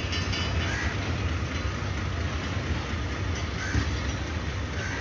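Passenger train coaches rolling slowly along the platform: a steady low rumble of wheels on the track.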